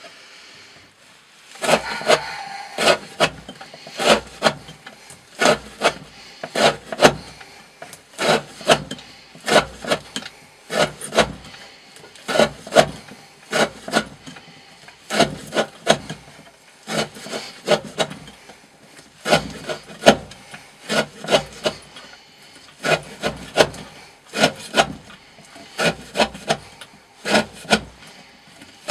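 Knife blade slicing repeatedly through thick rope and striking a wooden board, about one and a half cuts a second: an edge-retention cutting test.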